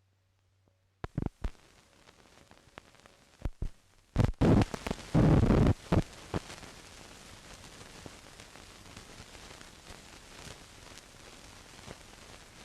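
Surface noise from an old optical film soundtrack: a steady hiss with sharp clicks and pops, and a cluster of loud crackling bursts about four to six seconds in.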